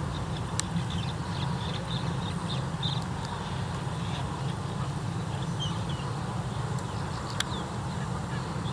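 Many birds calling in a scattered chorus of short chirps over a steady low rumble, with a sharp click about half a second in and another near the end.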